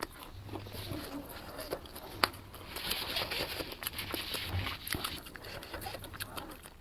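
Close-miked eating sounds: scattered wet mouth clicks and smacks, with one sharp click about two seconds in and a longer hissy, slurp-like stretch shortly after.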